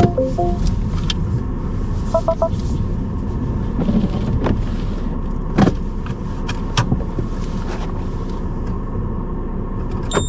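Car cabin noise: steady engine and road rumble, with a few sharp clicks and short electronic chimes. A high beep starts at the very end.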